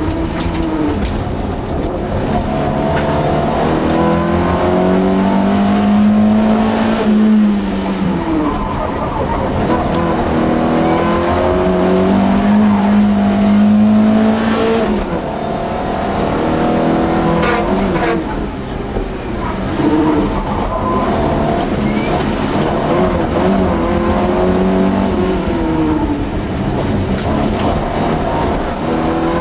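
Volvo 242's engine heard from inside the cabin while racing, its pitch climbing under acceleration and falling back several times as the driver lifts and shifts, over steady road noise.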